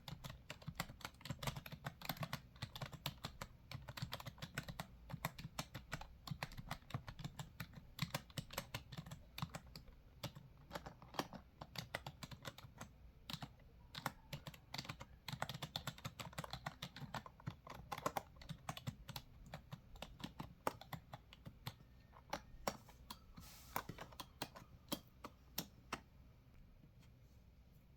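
Typing on a computer keyboard: a fast, irregular run of key clicks, several a second, that thins out and stops about a second before the end.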